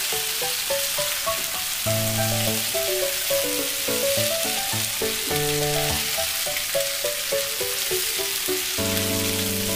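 Chopped okra and onions sizzling in hot oil in a nonstick frying pan as they are stirred with a spatula: a steady frying hiss. Background music plays over it.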